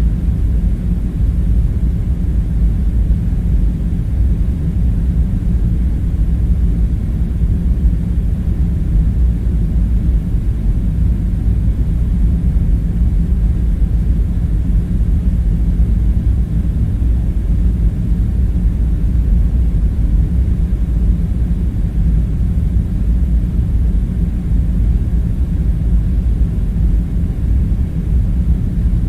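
A steady, deep rumbling drone of background ambience, even and unbroken, with no separate sounds over it.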